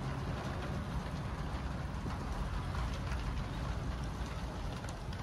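Thunderstorm rain falling steadily, with scattered drop ticks over a continuous low rumble.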